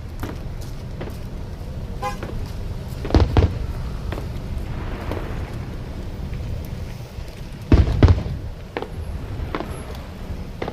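Fireworks shells bursting: two pairs of loud booms about four seconds apart, with smaller pops and crackles in between.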